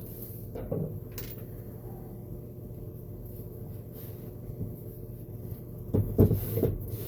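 Knocks and clunks as the radial arm saw's motor housing is worked apart: a couple of light knocks about a second in, and a louder cluster near the end, over a steady background hum.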